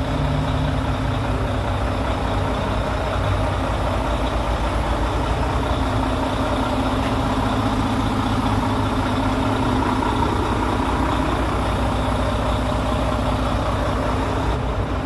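Volvo semi truck's diesel engine running steadily with an even low pulsing, unchanging throughout.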